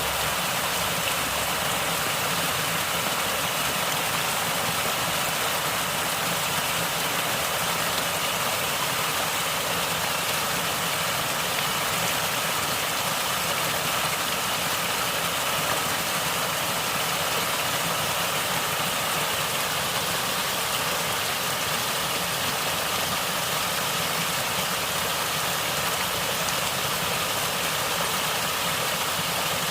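Natural water flowing and gurgling, a steady, even rush with no breaks.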